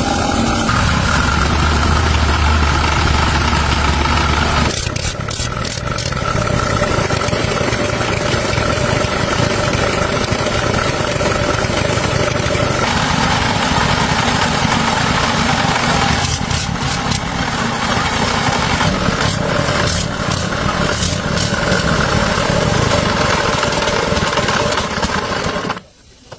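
An engine running steadily, its tone changing abruptly at several points where different shots are cut together, then cutting off just before the end.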